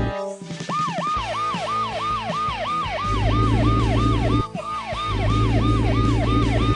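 Emergency vehicle siren in a fast yelp, each sweep rising quickly and falling back, about two to three times a second. A steady low rumble runs underneath.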